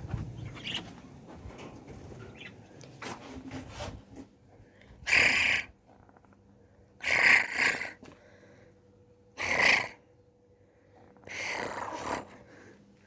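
Pet bird giving four loud, harsh squawks a couple of seconds apart, after a few seconds of quieter rustling.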